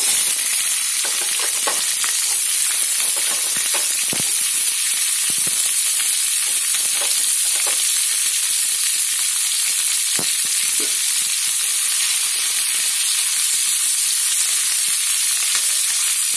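Green capsicum (bell pepper) chunks frying in hot oil in a pan: a steady sizzle with scattered pops and crackles.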